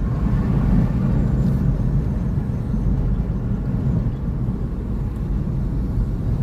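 Car driving slowly, heard from inside: a steady low engine and road rumble.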